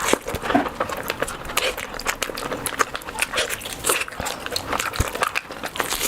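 Close-miked chewing and wet mouth smacking of a person eating, a quick irregular run of small clicks and squelches.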